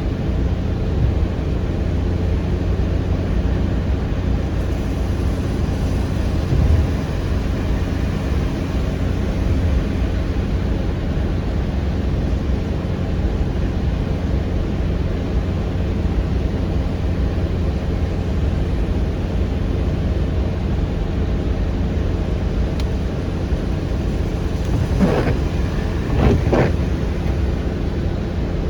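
Steady road and engine noise of a car, heard from inside the cabin while driving. Two short squeaky sweeps come near the end.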